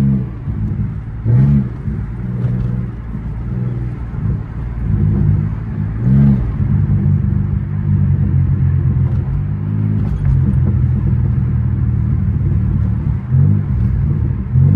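Pontiac Grand Prix GT's 3.8-litre V6 running at a steady cruise, heard from inside the cabin with road rumble. Its pitch swells briefly and settles a few times.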